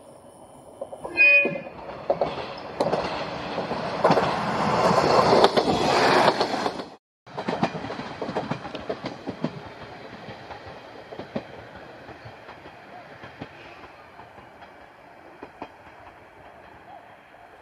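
A passing train sounds a short horn blast about a second in. It then runs by with loud wheel clatter over the rail joints for several seconds. After a brief break the clatter goes on more faintly and slowly fades away.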